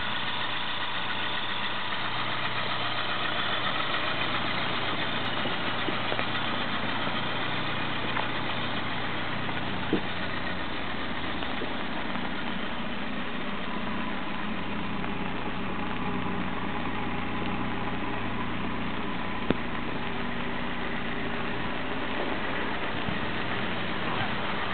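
Opel Ascona C's four-cylinder engine idling steadily under the open bonnet, with two short sharp clicks, about ten and nineteen seconds in.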